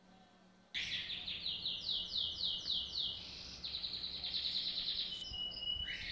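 A songbird singing, starting about a second in: a run of quick repeated downward-sweeping notes, then a fast trill, then a short held whistle.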